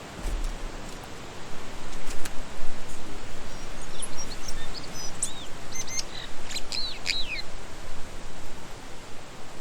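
Tui calling: a quick jumble of short high whistles, clicks and rapid up-and-down glides, bunched in the middle of the stretch, over a steady rushing hiss.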